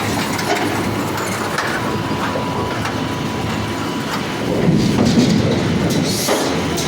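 Forging-shop machinery running in a steady rumbling, clattering din, with a faint steady tone in the first few seconds and a couple of sharp metal knocks near the end.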